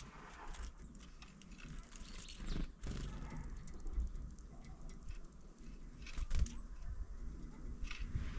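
Scattered light taps and rustles at irregular intervals, typical of a small bird pecking and shifting on a window feeder.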